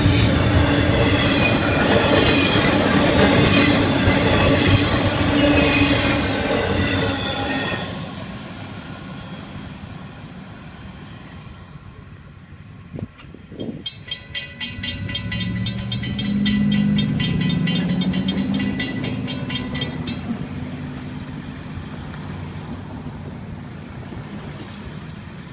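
Florida East Coast Railway intermodal freight train passing at speed, wheels clacking with steady squealing tones, until the end of the train clears about eight seconds in. From about fourteen to twenty seconds in, the grade-crossing bell rings rapidly and then stops, with a low road-vehicle engine rumble under it.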